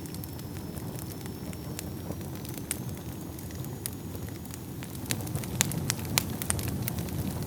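Wood fire burning in a fireplace: a steady low rumble of flames with sharp crackles and pops, which come thicker and louder in the second half.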